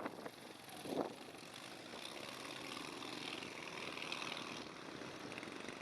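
Faint, steady running of a propeller aircraft's engines, with a brief louder sound about a second in.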